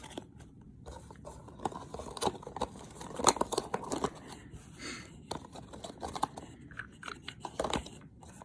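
Plastic packaging rustling and crinkling as items are handled, with irregular small crackles and clicks.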